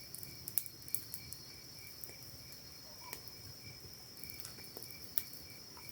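Night insects, crickets, calling: a steady high trill with a lower chirp repeating about three times a second, and a few faint scattered clicks.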